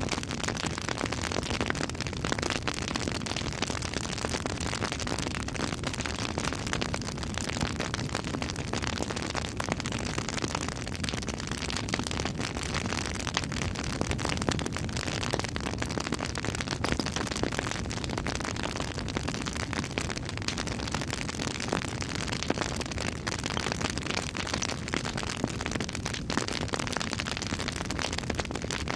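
Campfire burning, a steady stream of small crackles and pops over a continuous hiss.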